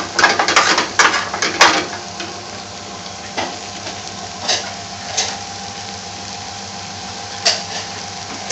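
Shredded potatoes for aloo bhaji sizzling in a metal frying pan over a low gas flame, nearly cooked. For about the first two seconds a utensil scrapes and clatters against the pan, then the sizzle goes on with a few single clicks.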